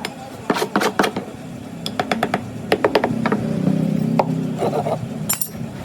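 Irregular sharp knocks and taps of hand tools on hard material, with a low hum rising in the middle.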